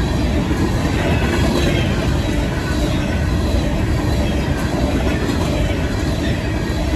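Empty coal cars of a freight train rolling past at speed: a steady, loud running noise of steel wheels on the rails. The crossing bells ring throughout while the gates are down.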